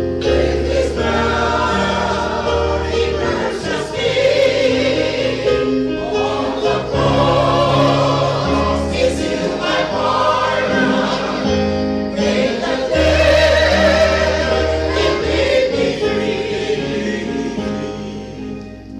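A choir singing a gospel hymn over sustained bass notes, fading out near the end.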